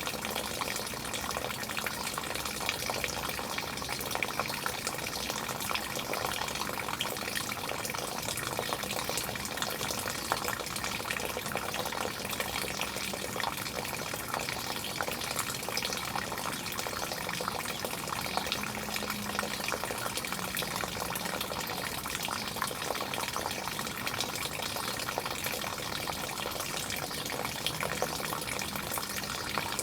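Water running and splashing steadily, a continuous rushing with fine crackling.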